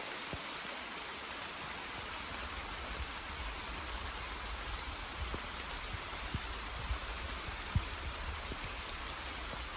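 Steady hiss of rain falling on the rainforest, with a low rumble underneath and a few soft thumps scattered through.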